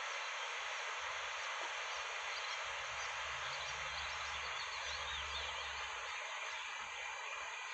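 Faint high bird chirps over a steady outdoor hiss, with a low rumble in the middle.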